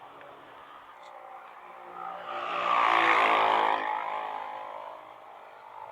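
A motor vehicle passing close by on the road, its engine and tyre noise rising to a peak about three seconds in and then fading away.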